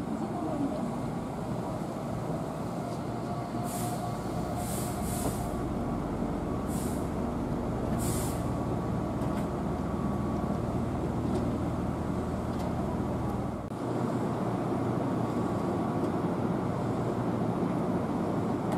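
Keihan electric commuter train braking to a stop at a station platform, a faint falling whine under a steady rumble. Several short air hisses from the brakes come between about four and eight seconds in, then the stopped train hums steadily.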